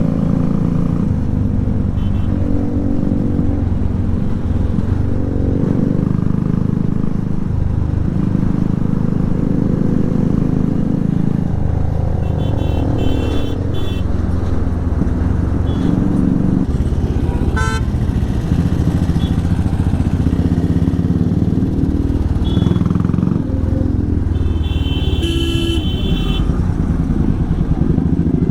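Motorcycle engine running under way, its pitch stepping up and down as it accelerates and changes gear. A vehicle horn honks about halfway through and again near the end.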